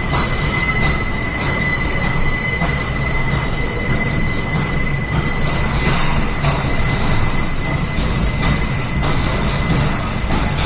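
New York City subway L train heard from inside the car: steady rumble of steel wheels on rail with a thin, steady high-pitched wheel squeal and a few faint clicks.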